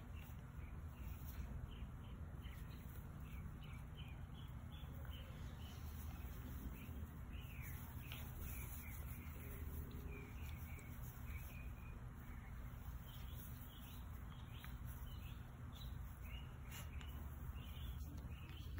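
Birds chirping, many short repeated calls, over a faint steady low rumble of outdoor background noise.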